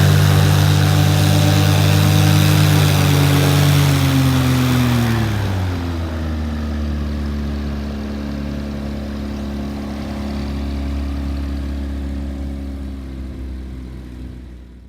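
A KitFox's Honda-based Viking 110 aircraft engine running. Its note drops in pitch between about three and six seconds in, then holds steady at the lower pitch and fades out near the end.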